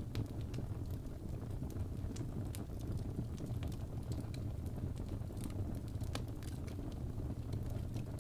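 Fireplace crackling: irregular sharp pops and snaps over a steady low rumble of burning flames.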